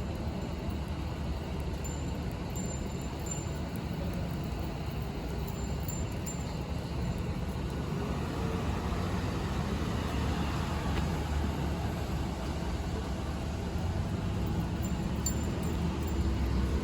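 Street traffic: the steady low rumble of motor vehicles running and passing, growing louder near the end.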